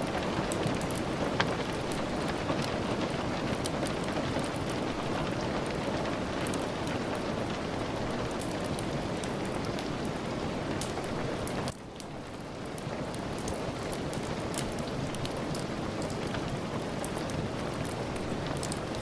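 Steady rain with scattered small crackles and ticks through it. About twelve seconds in the sound drops abruptly, then swells back to full over a second or two.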